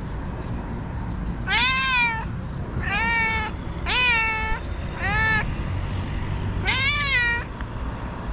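A stray cat meowing insistently: five drawn-out meows about a second apart, each rising then falling in pitch, the last one the longest.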